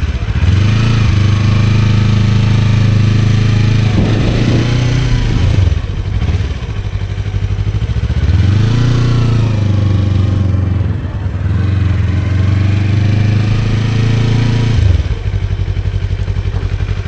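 Motorcycle engine pulling away and running under throttle, its pitch rising, dipping and swelling again as the rider rolls on and off. It drops back sharply about two seconds before the end as the bike comes to a stop.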